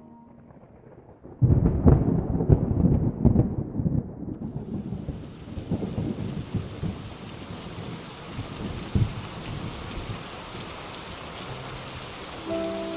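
A thunderclap about a second and a half in, a sudden crack that rolls into a rumble for a few seconds, followed by steady rain.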